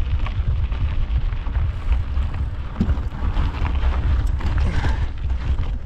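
Mountain bike rolling over rough dirt trail: steady wind rumble on the microphone with scattered clicks and knocks from the bike and tyres.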